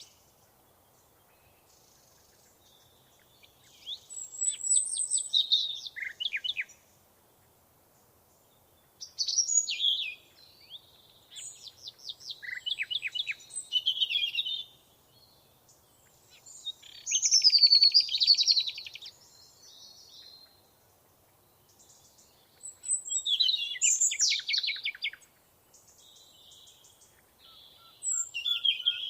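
A songbird singing in phrases of rapid repeated notes and trills, each a few seconds long, with quiet pauses of a few seconds between them; about five phrases.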